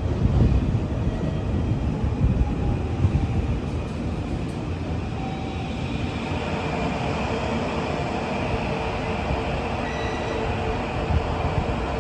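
A train moving along a station platform: a steady rumble of wheels on rails, with a faint steady whine coming in about halfway through.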